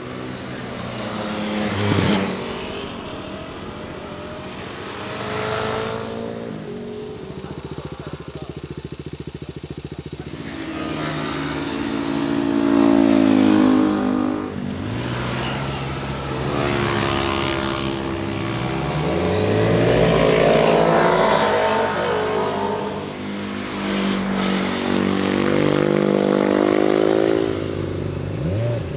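Motorcycles passing one after another, engines revving and shifting as each goes by, the sound swelling and falling away several times. The loudest passes come in the second half.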